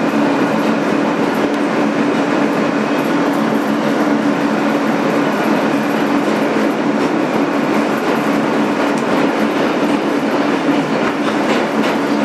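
Inside a 2008 Kawasaki R160B subway car running at steady speed between stations: continuous wheel-on-rail rumble with a steady low hum.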